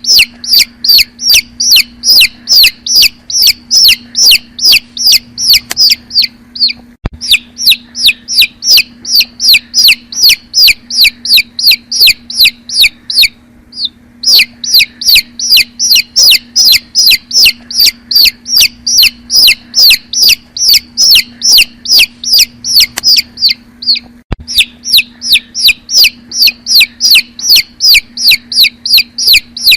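A bird repeating short, high, falling chirps at an even pace of about three a second, over a steady low hum, with brief pauses a few times.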